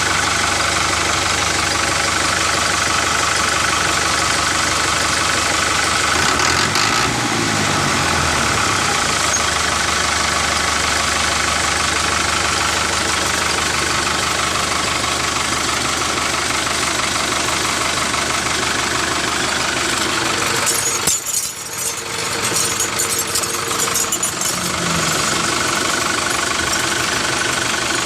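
Tractor-style engine running steadily at idle, dipping briefly about three quarters of the way through before settling again.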